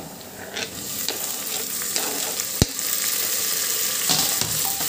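Chopped tomatoes tipped into hot oil and golden-brown onions in an aluminium pressure cooker, the sizzle growing louder about a second in as they hit the oil, then stirred with a wooden spoon. A single sharp knock comes about two and a half seconds in.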